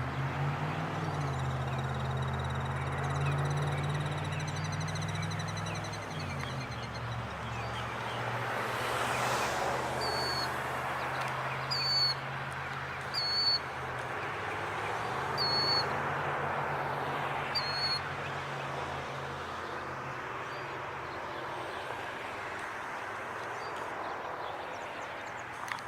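Killdeer giving five short, shrill call notes spaced a second or two apart in the middle stretch, over a steady low engine hum in the background.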